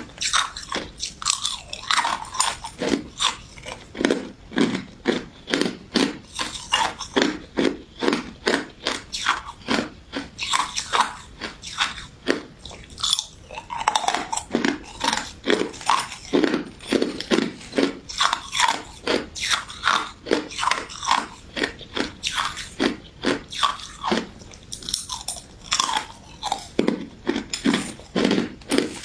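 Someone biting and chewing crunchy crystal ice dessert with citrus jelly, close to the microphone. There is a fast, continuous series of crisp crunches, several a second.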